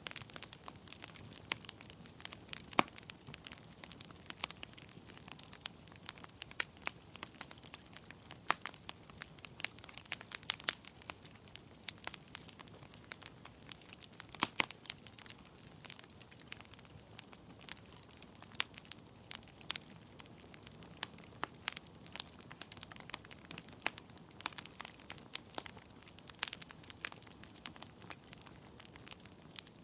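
Wood fire in a fireplace crackling, with irregular sharp pops and snaps from the burning logs over a low steady hiss.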